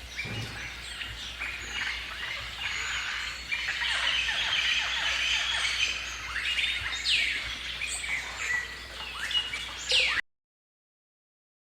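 Rainforest ambience: a dense chorus of many birds calling and chirping, with overlapping sweeping calls. It cuts off suddenly to silence about ten seconds in.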